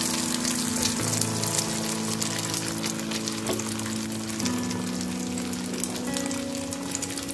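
Beaten egg and chopped greens frying in hot oil in a pan, a steady sizzle full of fine crackles as the ladle spreads the mixture. Background music with held notes plays underneath.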